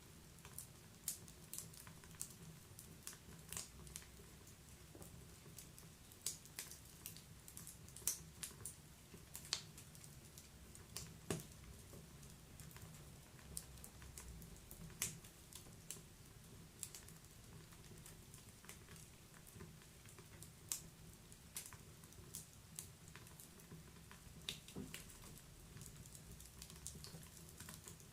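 Wood fire crackling in a fireplace: irregular sharp pops and snaps, one or two a second, over a faint low rumble.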